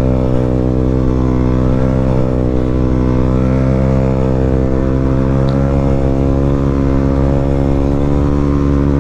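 KTM 125 Duke's single-cylinder four-stroke engine running at steady revs through a Leo Vince decat pipe and an Akrapovic silencer with the dB killer removed. The exhaust note holds one even pitch throughout.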